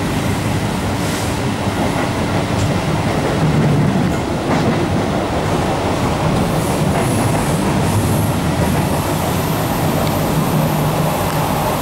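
TrenItalia passenger train running along the line, heard from inside the carriage: a steady rumble of wheels on rail with a low hum and a few faint clicks.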